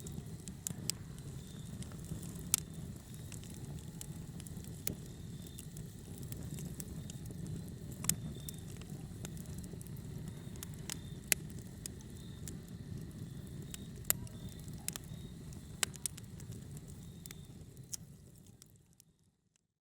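Wood fire crackling: a steady low rumble of flames with scattered sharp pops and snaps. It fades out to silence near the end.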